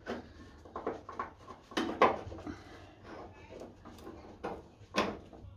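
Knocks and clatter of a sill-stand reinforcing plate being handled and test-fitted against the car's sill, with the loudest knocks about two seconds in and about five seconds in.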